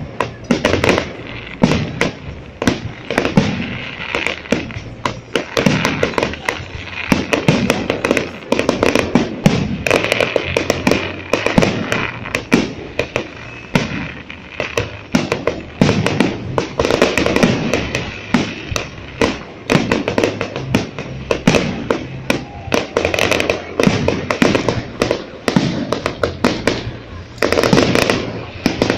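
Fireworks display: aerial shells bursting with a dense, unbroken run of bangs and crackles, several a second.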